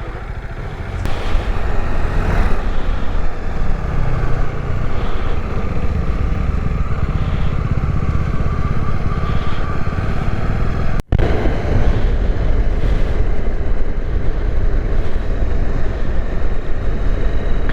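Motorcycle on the move: the Bajaj Dominar 400's single-cylinder engine running under a steady haze of wind noise, getting louder about a second in. The sound cuts out for an instant about eleven seconds in.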